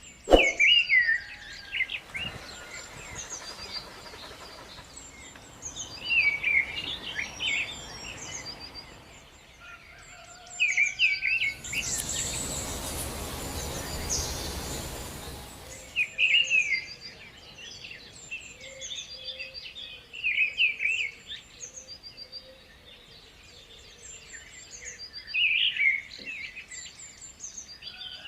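Birds chirping and calling again and again, with a sharp knock right at the start and a steady hiss lasting about four seconds in the middle.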